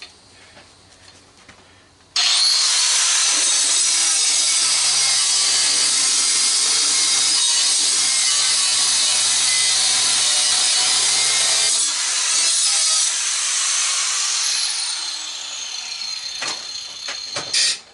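Angle grinder with a diamond blade switched on about two seconds in and cutting through the microwave's sheet-metal casing for about fifteen seconds to cut off a screw that is rusted in, then stopping just before the end.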